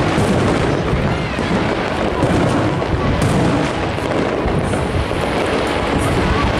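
Fireworks display going off in a continuous, dense barrage of bangs and crackles.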